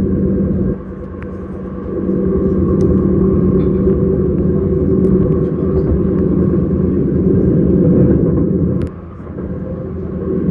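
S-Bahn train running, a steady noise with a low hum. The level drops sharply about a second in and again near the end, then comes back up.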